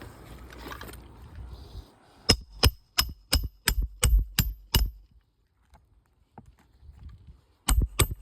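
Nails being driven into asphalt roof shingles: eight sharp, ringing strikes at about three a second, then a pause and a few more near the end.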